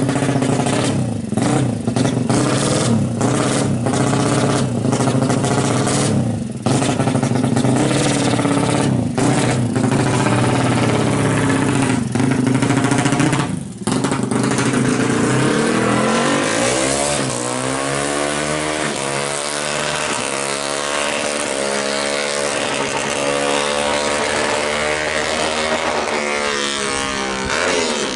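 Suzuki Satria FU motorcycle engine, bored up to 200cc, revved hard in short bursts with quick drops in the first half. After a brief dip about halfway, its pitch climbs and falls again and again, as when riding through the gears.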